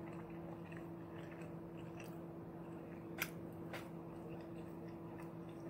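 A person chewing a bite of quesadilla filled with Flamin' Hot Cheetos, close to the microphone, with a few sharp crunchy clicks about three seconds in. A faint steady hum runs underneath.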